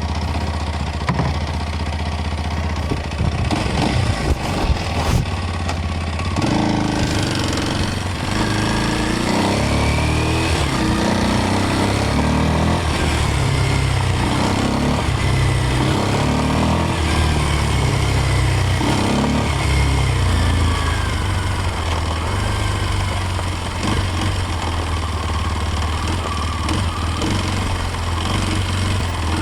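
Kawasaki KLX230 dirt bike's single-cylinder four-stroke engine running while riding, its revs rising and falling repeatedly from about six seconds in. A few sharp knocks come about four seconds in.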